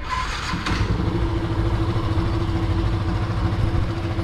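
Yamaha FZ's single-cylinder engine idling steadily. The idle carries the noise the mechanic diagnoses as coming from inside the stator.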